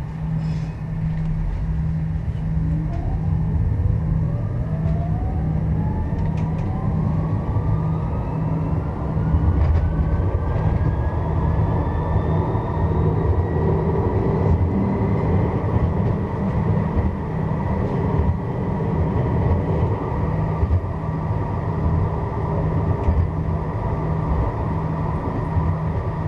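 Strasbourg Eurotram accelerating away from a stop, heard from inside the car: the electric traction motors' whine rises steadily in pitch for about the first half, then holds level at cruising speed over the low rumble of the wheels on the rails.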